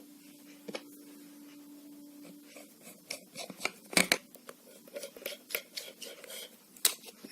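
Clicks, taps and scrapes of a screwdriver and plastic parts as the new lead of a hair straightener is screwed into place, with a louder click about four seconds in and another near the end. A faint steady hum runs underneath for the first couple of seconds.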